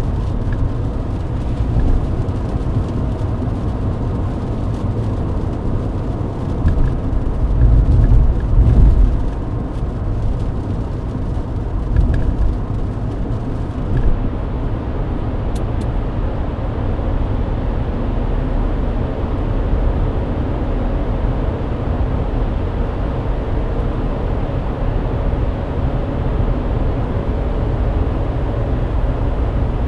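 Mercedes-Benz W124 driving at highway speed on a wet road: a steady rumble of engine and tyres, swelling louder for a couple of seconds about eight seconds in, with a faint hiss and crackle of water in the first half.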